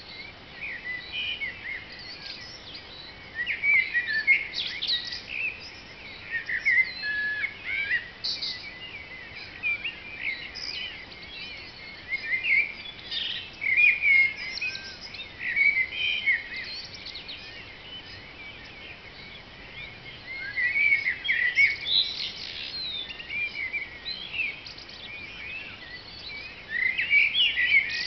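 Dawn chorus: several songbirds singing at once, short whistled phrases and trills overlapping without a break, with louder phrases standing out every few seconds.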